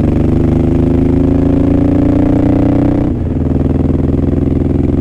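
Suzuki Boulevard M109R's big V-twin engine accelerating hard uphill, its pitch rising for about three seconds, then a brief break for an upshift before it pulls on at a lower pitch. Heard through a microphone inside the rider's helmet.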